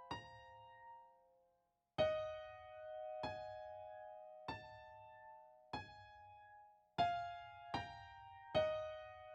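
Slow, soft piano music: single sustained chords struck roughly once a second, with a short break to silence about a second and a half in.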